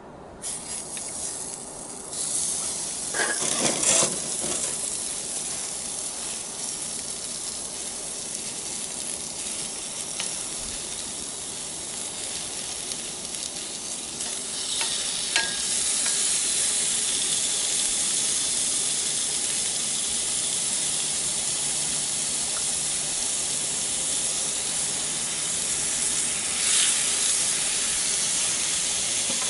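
Meat sizzling in a hot cast-iron skillet. The hiss starts suddenly about half a second in and grows louder twice, a couple of seconds in and again about halfway, with a few brief louder spits along the way.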